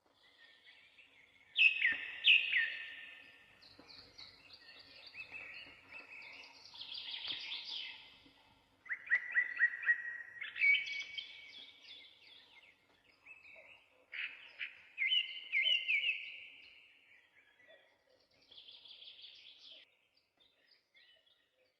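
Small songbirds chirping and calling in bursts of rapid, short, high notes separated by pauses.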